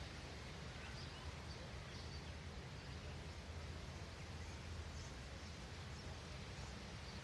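Faint outdoor ambience: a steady hiss and low rumble, with a few faint, short, high bird chirps scattered through it.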